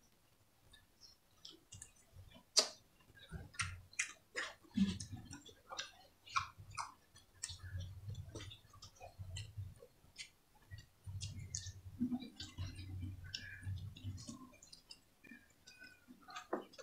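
Close-miked eating sounds of two people chewing braised pork ribs and rice eaten by hand: many scattered wet mouth clicks and lip smacks over soft low chewing.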